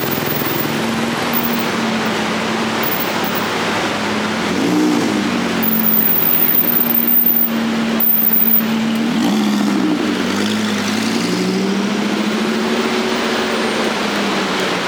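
City street traffic with car engines running and passing under a steady wash of traffic noise. Engine pitch swoops up and back down about five seconds in and again around nine to ten seconds in, and the traffic is loudest for a couple of seconds in the middle.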